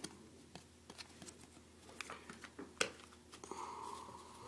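Faint rustling and scattered light clicks of hockey trading cards being handled.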